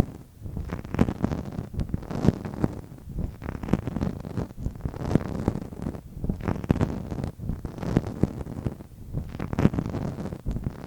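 Close-miked ASMR tapping and rubbing: a dense, irregular run of soft, low taps and rustles with no pause.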